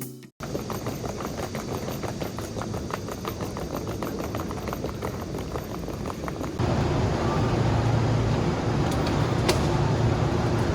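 Steady transit or traffic noise. For the first six seconds a fast, even run of clicks sits over it. After a sudden cut, a louder low rumble takes over.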